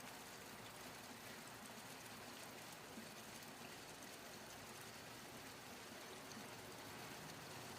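Rain falling steadily: a faint, even hiss of drops.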